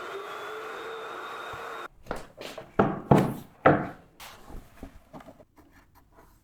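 A steady machine whine, made of several held tones, cuts off suddenly about two seconds in. A run of wooden knocks and clatters follows, three loud ones and then lighter taps that die away, like wooden boards being handled and set down in carpentry work.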